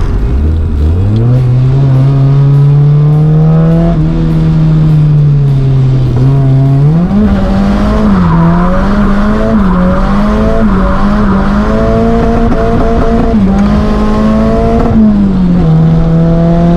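Car engine under hard acceleration, heard from on board: the revs climb quickly, hold high, climb again with small wavers, then drop back near the end as the car comes off the throttle.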